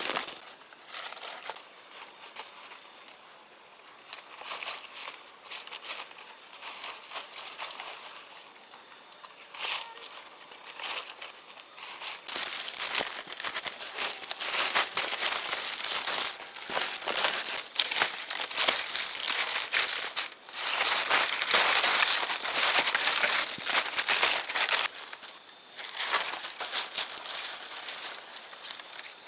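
Dense crinkling and rustling of dry material being handled, quieter at first and louder from about twelve seconds in, with two brief lulls in the second half.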